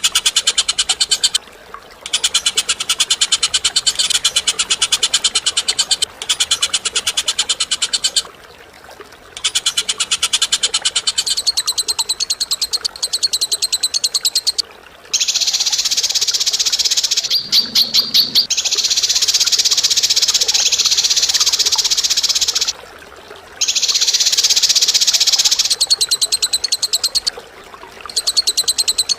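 Recorded bird call: a harsh, high-pitched rattling of fast, dry pulses, given in long bursts with short pauses, and a slower run of separate clicks about two-thirds of the way through. It is a 'kasaran' (rough) masteran call played for songbirds to learn.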